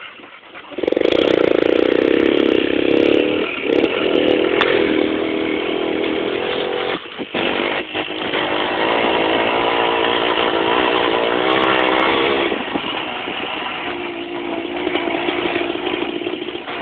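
Motorcycle engine revving and pulling away. It starts loud about a second in, its pitch rising and falling, cuts out briefly twice a little past halfway, and runs quieter near the end.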